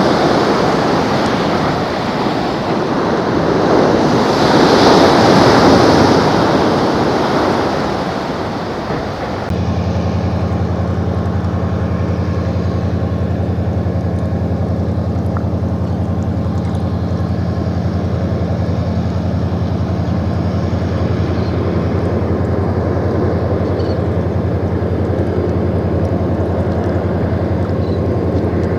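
Jet airliner engine noise: a broad roar that swells to a peak about five seconds in and then eases off. About nine seconds in it changes abruptly to a steady, low droning hum with several fixed pitches.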